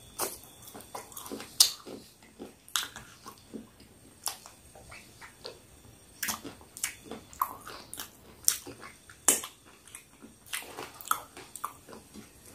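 Close-miked chewing and biting of peri peri chicken: irregular wet mouth smacks and crunches, one or two at a time with short gaps between.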